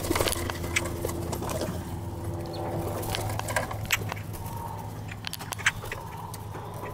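A flock of birds crowding close: scattered sharp taps and clicks with a few short, faint chirps, over a steady low hum.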